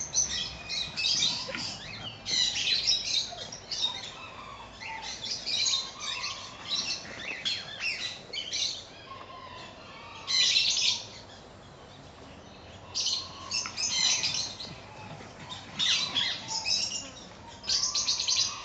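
Birds calling: repeated short, harsh chirps and squawks, some in quick runs, with a few lower whistled notes between them.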